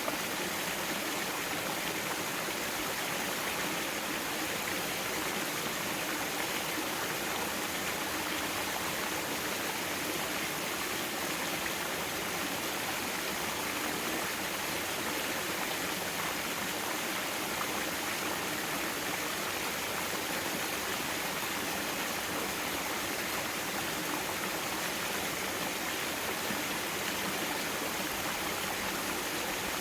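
Mountain stream water flowing and splashing over rocks, a steady even rush.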